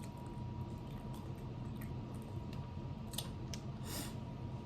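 Eating sounds from a seafood boil: scattered small clicks and cracks of shells being picked and food being chewed, with a short swish about four seconds in, over a steady low hum.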